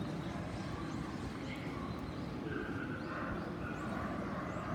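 Outdoor ambience: a steady low rumble with a few short, high bird chirps, mostly in the second half.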